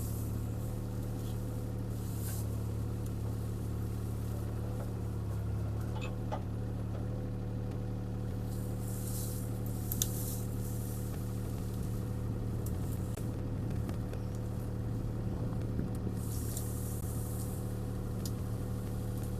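CAT 303C CR mini excavator's diesel engine running steadily while the machine works a tree out, with a few brief hissing swishes and a sharp knock about ten seconds in.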